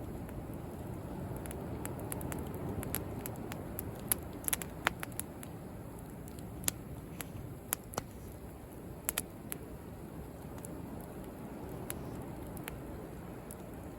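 Wood bonfire crackling, with sharp pops coming irregularly and in small clusters, over the steady low wash of sea waves.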